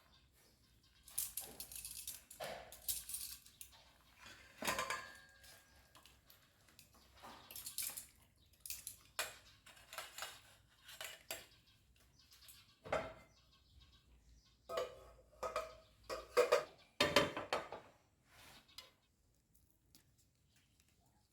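Dishes and kitchen utensils clinking and knocking irregularly while food is prepared; the handling stops near the end.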